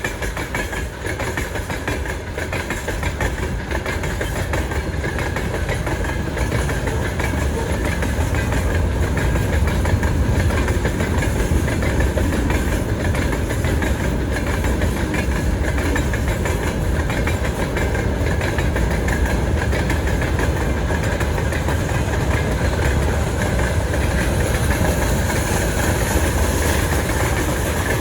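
Freight train rolling past at close range: a steady, loud rumble of wagon wheels on the rails that grows a little louder about eight seconds in.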